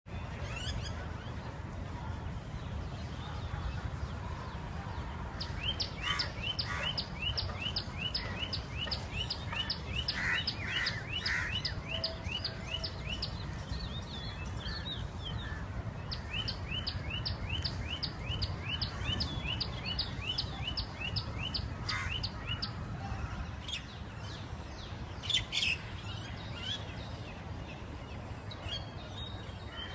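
Birds singing outdoors: one bird repeats a fast string of short, falling chirps, about three or four a second, in two long runs of several seconds each, with a few other calls near the end, over a steady low rumble.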